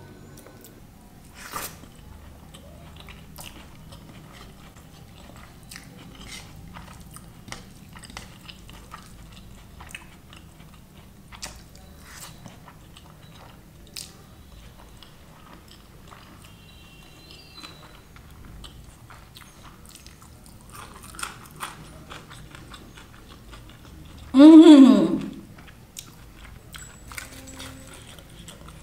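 Mouth sounds of a person eating paneer curry and lachha paratha by hand: chewing, biting and wet smacks, heard as scattered small clicks. About 24 seconds in, a short loud vocal sound falling in pitch, under a second long.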